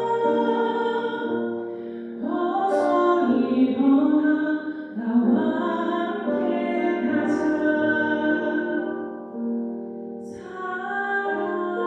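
A woman singing a slow Christian wedding song, holding long notes.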